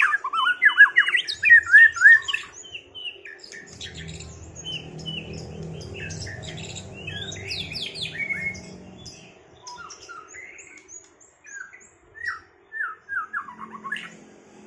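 White-rumped shama (murai batu) singing in rapid runs of quick falling notes. The song is loudest in the first couple of seconds, softer through the middle, and picks up again in a louder group near the end. A low rumble sits underneath for a few seconds in the middle.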